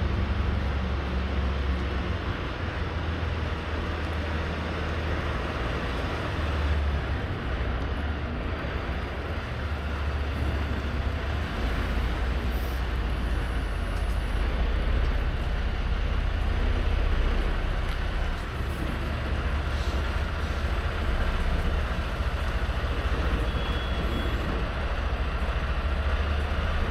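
Semi truck's diesel engine and road noise while driving: a steady low drone with an even rushing hiss over it.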